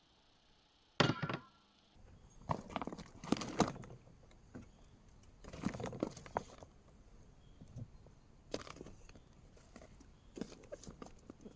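A sharp knock about a second in, then irregular knocks, clicks and rustling of objects being handled.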